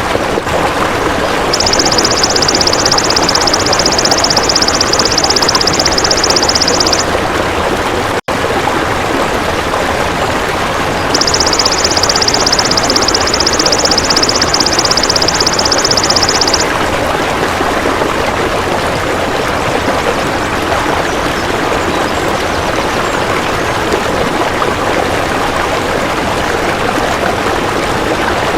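Golden grasshopper (belalang emas) stridulating in two long, high-pitched buzzing trills of about five seconds each, over a steady rush of running water. The sound drops out for a split second between the two trills.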